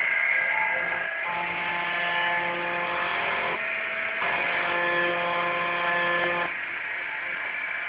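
Home-built CNC machine engraving into an MDF board: its stepper motors whine in several steady pitched tones that start about a second in, break off briefly in the middle, then return and stop near the end, over a constant machine hum.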